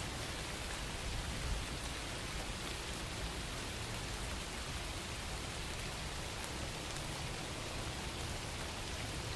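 Steady rain falling, an even hiss with faint patters of drops.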